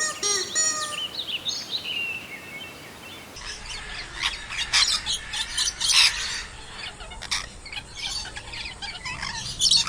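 Birds chirping. About a third of the way in the sound changes to another recording, where the chirps mix with sharp clicks and clatter.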